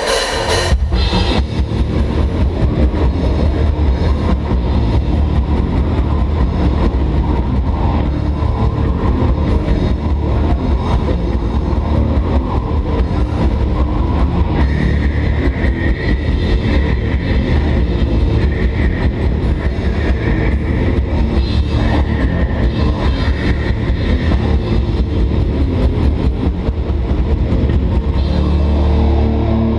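A metal band playing live and loud, with heavily distorted guitars and bass over fast, dense drumming.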